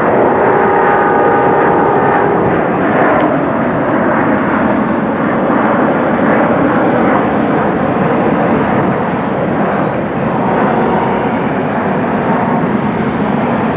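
Jet airliner engines roaring loud and steady. A chord of steady tones fades out about two and a half seconds in.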